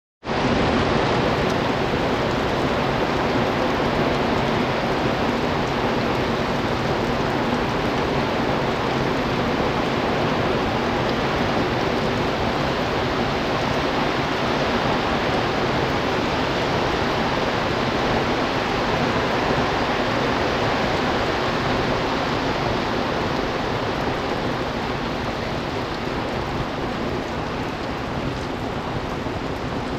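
Heavy monsoon rain falling in a steady, dense hiss, easing slightly near the end.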